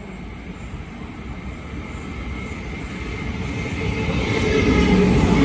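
Train approaching, its rumble growing steadily louder, with a faint high whine coming in over the second half.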